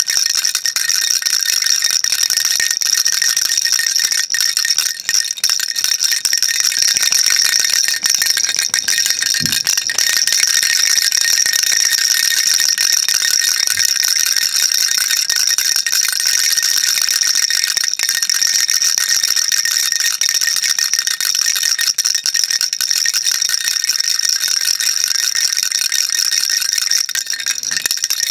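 Baby rattle shaken continuously, a dense, steady stream of small beads clattering inside the toy, bright and high-pitched, with no pauses.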